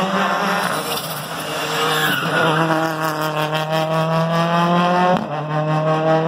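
Rally car engine at full throttle as the car accelerates away, its note climbing steadily through the gear, with a brief break about five seconds in.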